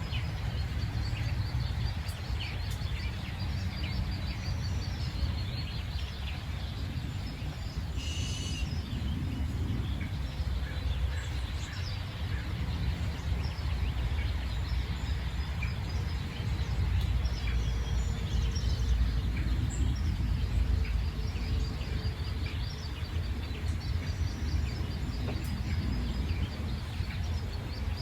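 Many birds chirping and singing over a steady low rumble, with a fast, high repeating chirp running through and a brief harsher call about eight seconds in.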